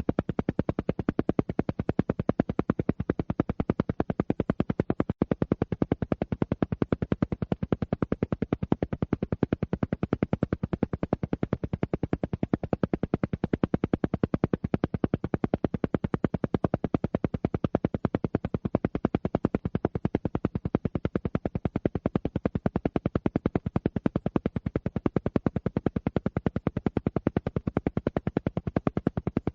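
Alpha-wave brainwave-entrainment sound: a steady train of rapid, evenly spaced pulses, about ten a second, with one brief dropout about five seconds in.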